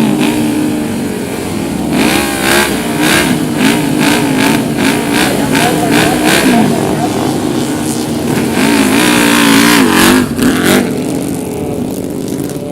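Motorcycle engines revving, the pitch rising and falling over and over, with a run of short sharp throttle blips in the middle.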